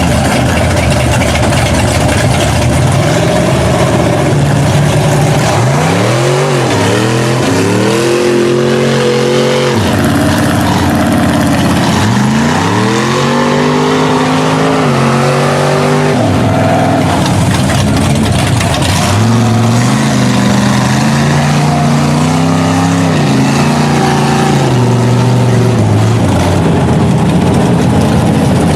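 Mud truck engine revving hard under load. Its pitch sweeps up sharply about six seconds in and again about twelve seconds in, holding high each time, then runs at a high steady drone through the second half, over a constant rushing noise.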